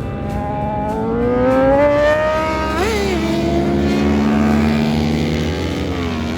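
Motorcycle engine at track speed, rising in pitch as it accelerates for a couple of seconds. It gives a quick rev spike and dip about three seconds in, holds, then falls in pitch near the end as it slows.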